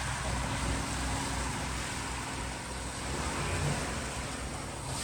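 Tour boat's engine running steadily under way: a constant low drone under an even rush of noise.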